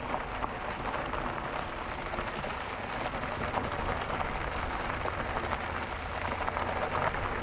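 E-bike tyres rolling over the trail surface, a steady dense crackle.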